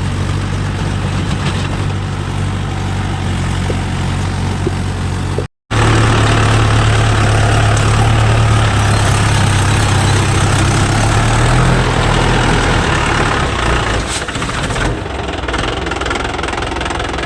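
Swaraj tractor's diesel engine running steadily with a strong low hum while working a rotavator in load first gear. The sound cuts out for a split second about five and a half seconds in, then comes back louder.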